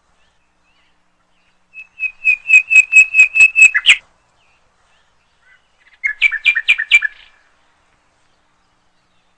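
A bird calling: a quick series of about ten short, high, evenly spaced notes, then after a pause of about two seconds a second, shorter series of about eight notes.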